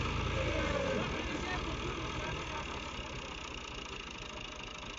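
Tractor engine running, a low rumble that is strongest for about the first second and then eases off.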